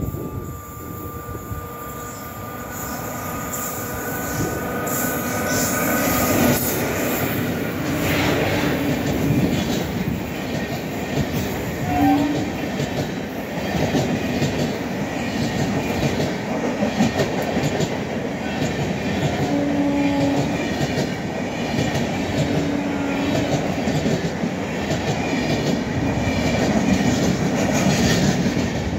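An Indian Railways express passenger train running past at speed. It grows louder over the first five or six seconds as it comes up, then its coaches pass close by in a steady rush of wheel-on-rail rumble and clatter.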